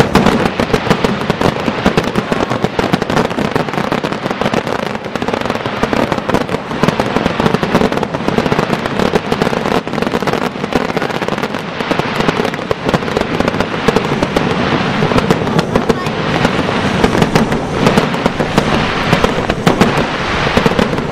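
Aerial fireworks display: a continuous barrage of many rapid, overlapping bangs and crackles from bursting shells.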